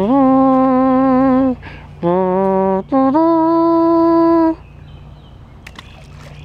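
A person humming a slow tune in a few long held notes, each phrase starting on a short lower note, the last held note pitched higher than the rest; the humming stops about two-thirds of the way through.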